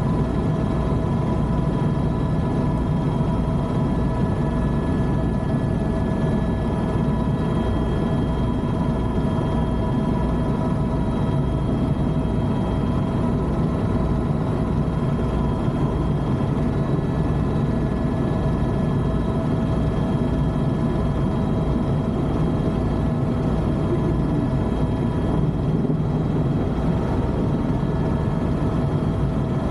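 Helicopter running steadily in flight: a constant turbine whine over the rapid low beat of the rotor blades.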